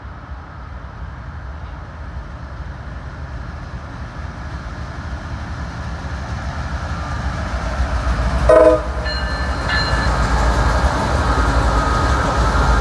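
CSX freight train's lead diesel locomotives approaching and passing, their low engine rumble growing steadily louder. About eight and a half seconds in the horn gives one short toot, a brief horn salute.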